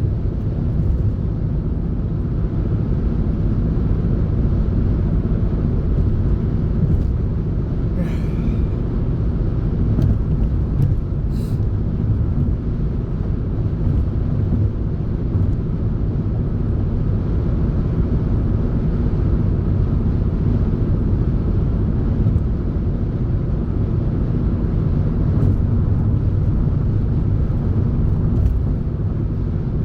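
Car cabin noise while driving: a steady low rumble of engine and road, with a couple of faint ticks partway through.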